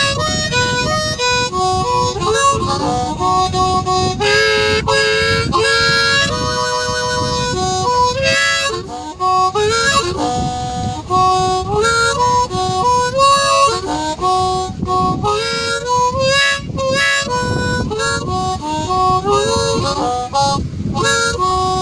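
Blues harmonica playing an instrumental solo break in a slow blues. It moves through held notes, some bent and some wavering with vibrato.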